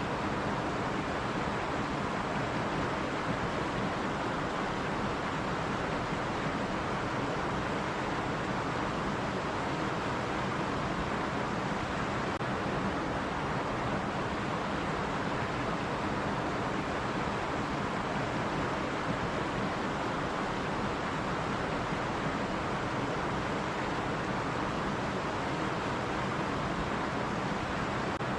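A running stream rushing and splashing steadily over rocks, an even, unbroken hiss of water.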